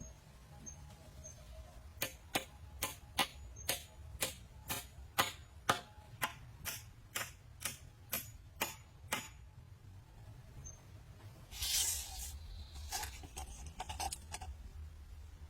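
A quick, steady run of sharp knocks, about three a second, starting about two seconds in and stopping about seven seconds later, followed by a short scraping rustle and a few softer knocks.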